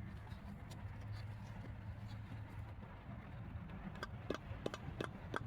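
Metal tools and car parts being handled: several short, sharp metallic clinks from about four seconds in, over a steady low hum.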